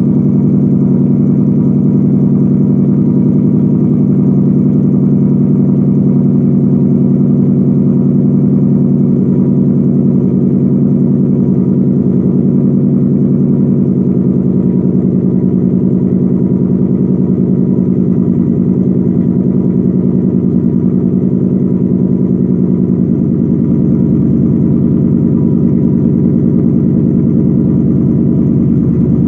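Car exhaust with Borla ATAK mufflers, an X-pipe and resonators at the tips, idling steadily during a cold start; the idle note shifts slightly a couple of times.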